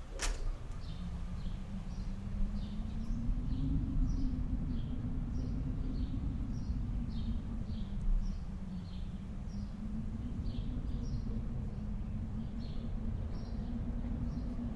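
Outdoor winter ambience: a steady low rumble of wind with a hum that slowly rises and falls, under a small bird chirping over and over, a short high chirp every half second or so. A brief sharp swish comes just after the start.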